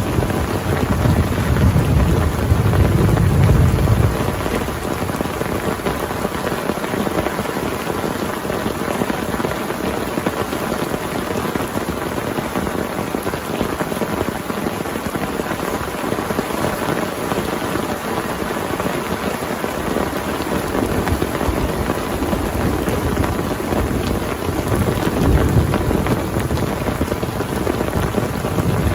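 Heavy rain falling steadily, with a low rumble of thunder near the start and another building near the end.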